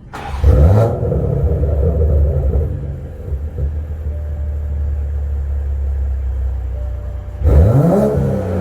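Toyota GR Supra engine through a Magnaflow xMod cat-back exhaust and catted downpipe: a quick rev about half a second in that drops back to a steady low idle, then a second throttle blip near the end.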